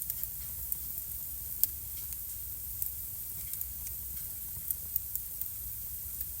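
Wood fire burning in a fireplace, crackling: irregular sharp pops and snaps over a steady hiss, the loudest pop about a second and a half in.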